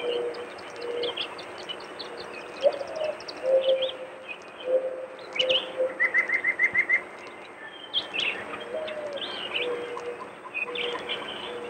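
Several wild birds calling: scattered high chirps and short songs, a quick even run of about seven notes just past the middle, and a lower call of short held notes repeated over and over.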